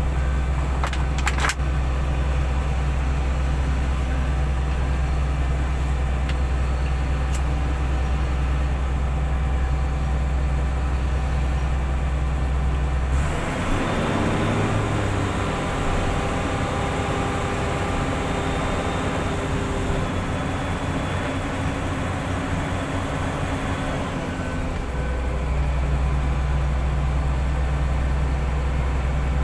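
Heavy-equipment diesel engine running with a steady low drone. About halfway through it rises for some ten seconds into a busier working sound with a whine, as when working under load, then drops back to the low drone.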